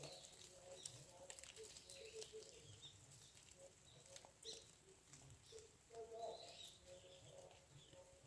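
Faint bird calls: scattered short high chirps over short lower notes.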